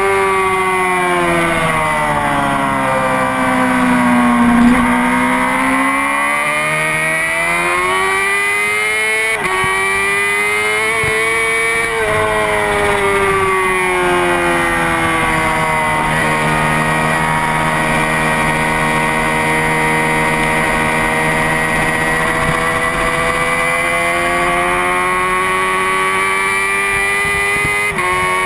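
Honda CBR600RR inline-four sport-bike engine ridden hard, its pitch swooping down under deceleration and climbing again several times. Sharp little drops in pitch mark upshifts, about a third of the way in and again near the end.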